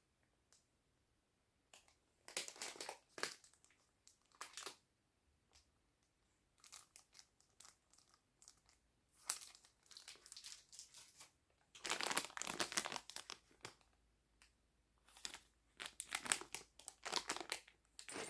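Faint crinkling and rustling in short spells a second or two long, with quiet gaps between, like something crinkly being handled by hand.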